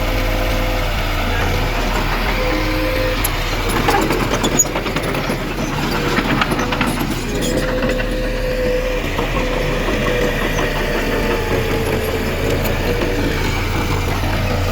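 Diesel engine of heavy earthmoving machinery running steadily under a steady whine, with a cluster of clanks and rattles about four to seven seconds in.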